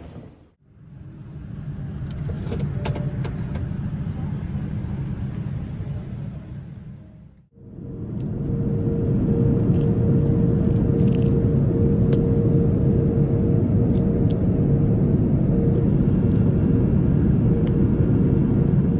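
Steady running noise of a moving vehicle, in two separate stretches split by a sudden break about seven seconds in. The first has a few light clicks. The second is louder and carries a steady hum.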